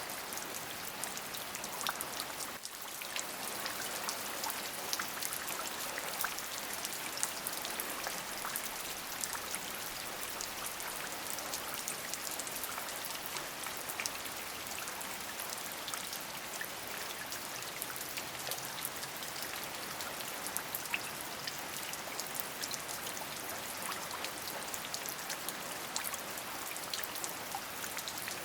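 Steady rain, many individual drops pattering on a surface over an even hiss.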